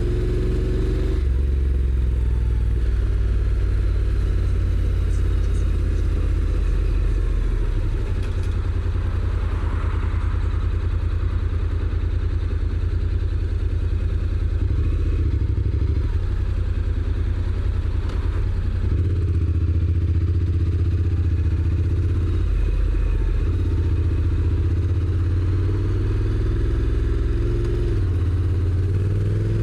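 Honda NC750X's parallel-twin engine running through its stock exhaust at road speed, with road and wind noise. The engine pitch rises as it accelerates near the start, changes abruptly about a second in as the gearbox shifts, and climbs again near the end.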